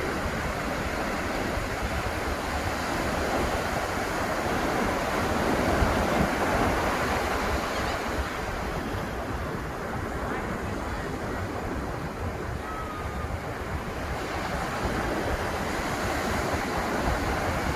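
Ocean surf on a beach: a steady wash of breaking waves that swells about six seconds in, with wind buffeting the microphone.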